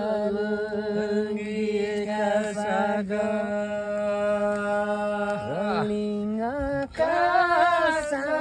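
Chant-like singing: long held notes over a steady drone, with a gliding fall in pitch partway through and a short break before the melody resumes.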